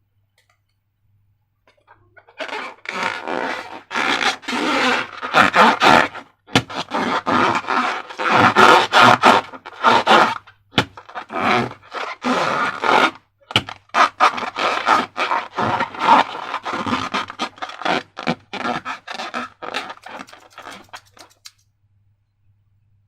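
Thick slime being scraped and squished, a long run of loud wet rasping strokes full of sharp crackles, with short pauses between them.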